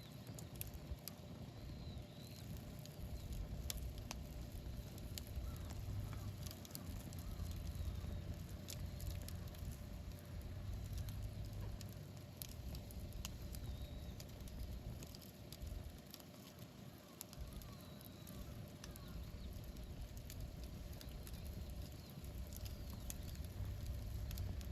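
Wood campfire burning and crackling, with frequent small sharp pops over a low rumble that swells and fades.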